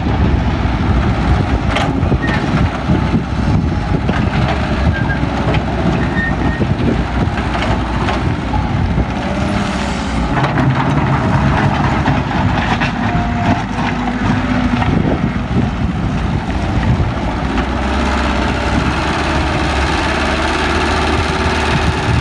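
Heavy diesel construction machinery running steadily, a continuous engine rumble with a few faint brief whines over it.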